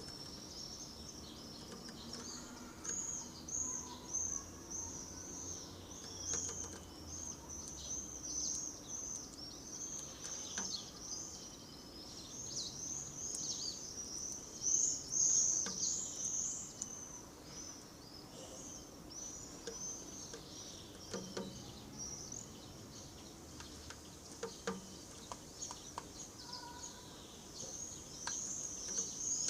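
Songbirds chirping continuously, a dense run of short, high-pitched, downward-sweeping notes, with a few faint clicks mixed in.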